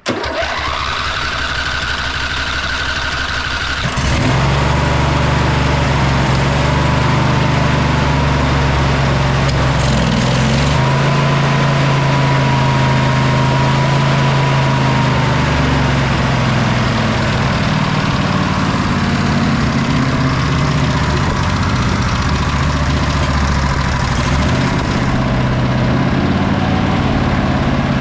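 Sabre by John Deere lawn tractor's V-twin engine cranked by its electric starter with a steady whine for about four seconds, then catching and running steadily, its speed drifting up and down a little. With the clogged carburetor port cleaned, it now fires on both cylinders.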